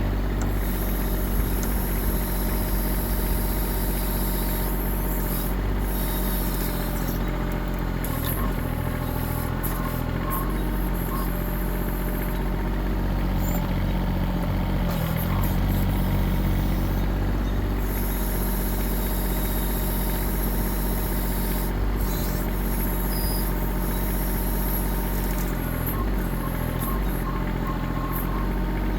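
Kubota diesel engine of a 1.6-ton Chinese mini excavator running steadily while it digs a trench, its pitch dipping slightly now and then as the load changes.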